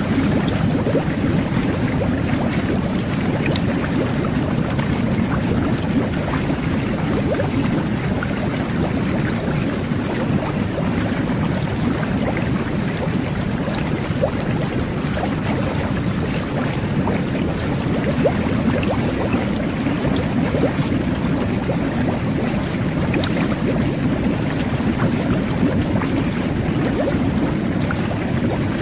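Jetted bubble bath running: water churning and bubbling steadily under the jets, with a low rumble and many small pops of bursting bubbles.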